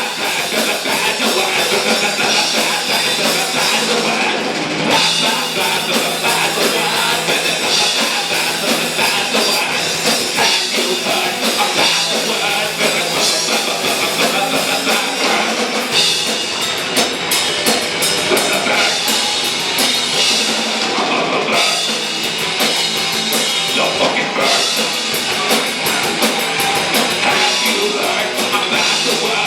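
A live rock band playing loud and full, driven by a drum kit with cymbals throughout.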